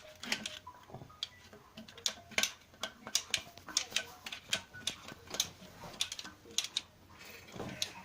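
Irregular metallic clicks and knocks from a VAZ 2114's four-cylinder engine as its crankshaft is turned over slowly by hand with the cylinder head removed. These are the knocks the engine was brought in with, which the mechanics trace to the bottom end.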